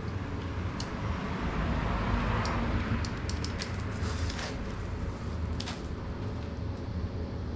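A steady low rumble with a cluster of sharp clicks and ticks a few seconds in.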